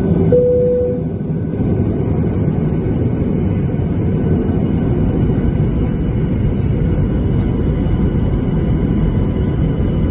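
Steady engine rumble and air noise inside the cabin of a Boeing 737-800 with CFM56-7B turbofans, with a short steady tone near the start.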